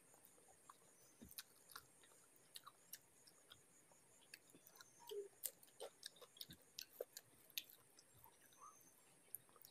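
Faint close-miked chewing of rice and curry: soft, wet mouth clicks and lip smacks scattered irregularly throughout.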